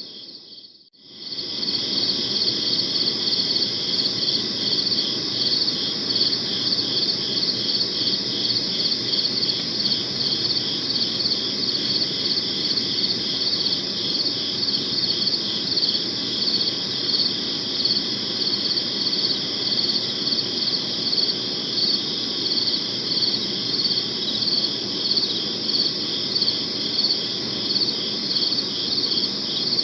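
Crickets chirping in a steady, evenly pulsing high-pitched chorus. The sound drops out briefly just after the start and fades back in within about a second.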